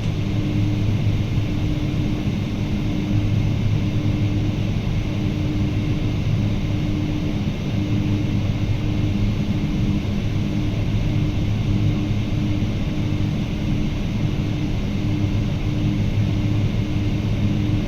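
Steady drone of a Boeing 777-200 airliner with Pratt & Whitney PW4000 engines: a low hum with faint steady tones and a light hiss, holding level without rising.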